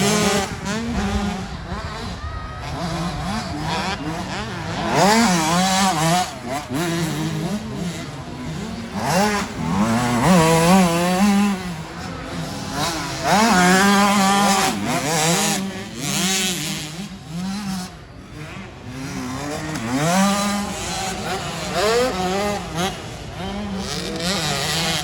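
Several motocross bikes' engines revving hard, the pitch climbing and dropping again and again as riders open and close the throttle and shift, with louder surges as bikes come close.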